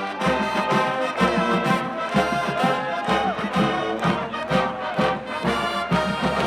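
College marching band playing a brass-led march, with trombones and trumpets over a bass drum hitting about once a second.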